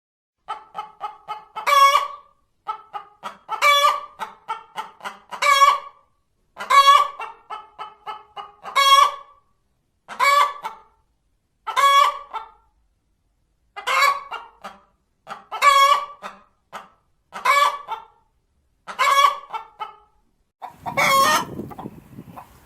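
Hen cackling: about a dozen bouts, each a quick run of short clucks ending in one loud, drawn-out squawk, the cackle hens give after laying an egg. The last bout, near the end, is harsher and has a low rumble under it.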